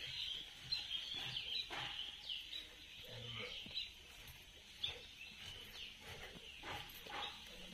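Faint chirping of small birds over a quiet outdoor background, with a few light knocks scattered through it.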